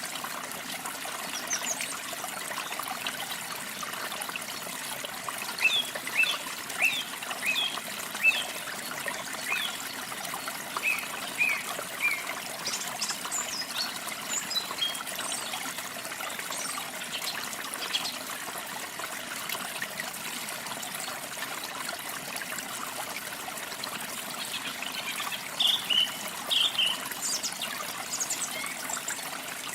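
Water trickling steadily, with small birds chirping over it in short bursts of quick high calls, loudest in clusters a few seconds in and near the end.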